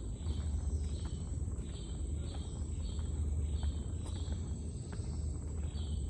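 Insects chirping in an even rhythm, about two short chirps a second, over a steady high-pitched whine and a low rumble.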